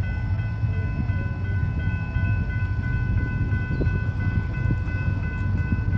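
Fast freight train rolling past close by: a steady low rumble of locomotives and wheels on the rails.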